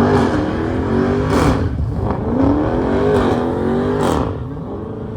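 A car engine revving hard, its pitch climbing and falling back several times, as during a burnout. It eases off somewhat near the end.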